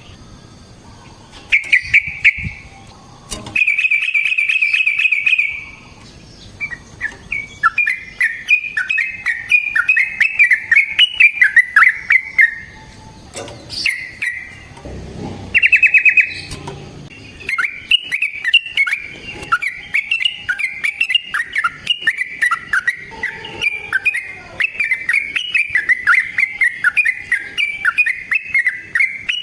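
Yellow-vented bulbul (trucukan) singing loudly: fast bubbly chattering phrases and rolling trills, repeated with short pauses. This is the long, rolling song used as a lure to make other bulbuls answer.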